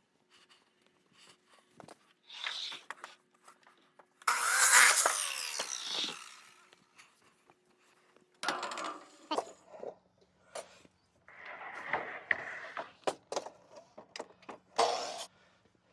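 A composite decking board scraping and rubbing as it is slid into place. The loudest scrape comes about four seconds in and lasts about two seconds, followed by a series of shorter rubs and knocks.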